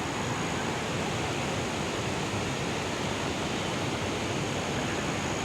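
Hillside waterfall rushing: a steady, even noise of falling water, with a faint high thin whine above it.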